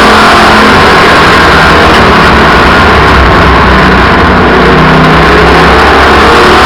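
Race car engines running hard at speed, loud and steady, pushing the recording to its maximum level.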